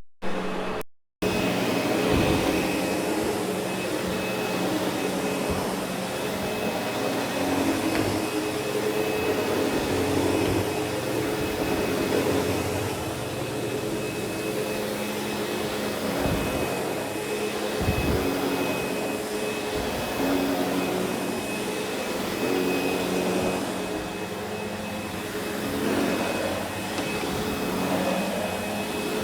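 Sebo X8 upright vacuum running steadily as it is pushed across carpet: a motor hum with a thin high whine, rising and falling a little with the strokes. The sound cuts out briefly about a second in.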